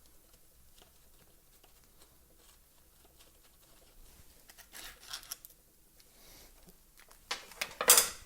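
Small parts and hand tools being handled while a string trimmer is taken apart: faint clicks, a scraping rustle about five seconds in, and a loud sharp clatter near the end.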